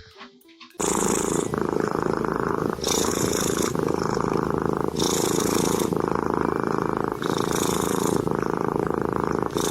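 Domestic cat purring loudly and close up, swelling and easing with each breath about every two seconds. It cuts in suddenly about a second in.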